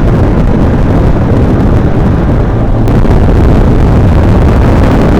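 Motorcycle under way: heavy wind buffeting on the microphone over the bike's running and road noise, getting a little louder about halfway through.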